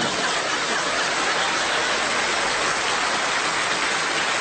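A steady, even hiss of noise with no pitch or rhythm.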